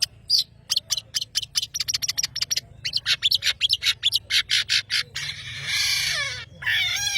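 Long-tailed shrike (cendet) singing actively: a fast run of short, sharp notes that quickens about two seconds in, then harsh, scratchy rasping phrases from about five seconds in.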